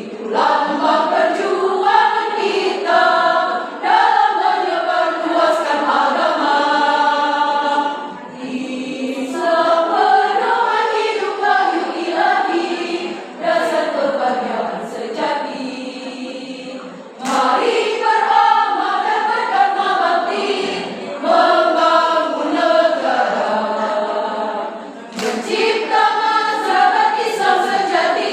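Choir singing in parts, in long sung phrases with brief breaths between them, about 8, 17 and 25 seconds in.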